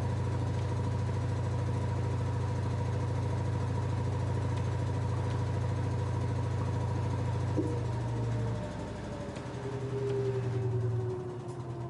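LG F10A8HDS5 front-loading washing machine spinning at high speed with a steady hum, then slowing down about eight seconds in, its whine falling in pitch as the drum winds down.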